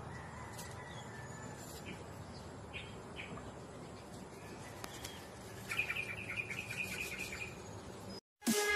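A bird chirping over faint outdoor background noise: a few short high calls, then about six seconds in a quick run of repeated chirps, about five a second. Near the end the sound cuts out and loud dance music starts.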